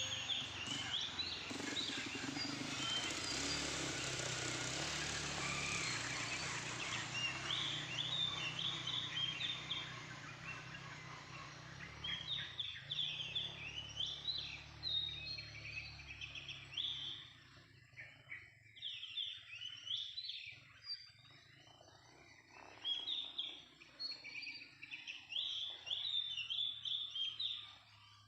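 Oriental magpie-robin calling in repeated short whistled phrases, coming in clusters with brief pauses. For roughly the first ten seconds the calls sit over a steady rushing noise, which then drops away.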